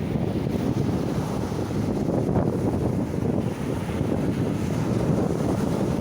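Strong wind buffeting the microphone in a steady, low rumble, with sea surf beneath it.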